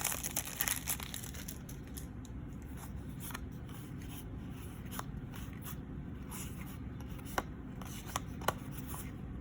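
Trading cards being handled and flipped through one by one: a few faint, scattered ticks and soft slides of card stock over a steady low background hum.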